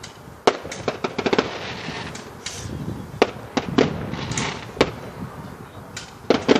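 Fireworks going off: scattered sharp bangs, with a quick run of crackling pops about a second in and a few more bangs near the end, and a hiss between them.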